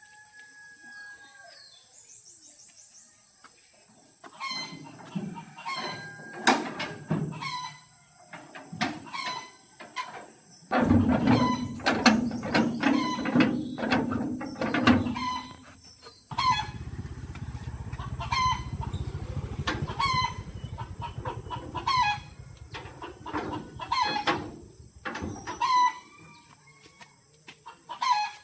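Chickens clucking over and over, with sharp knocks throughout and a low steady rumble in the middle stretch.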